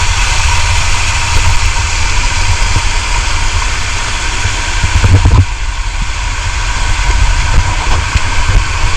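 Steady roar of a waterfall heard close up, with a heavy low rumble that swells briefly about five seconds in.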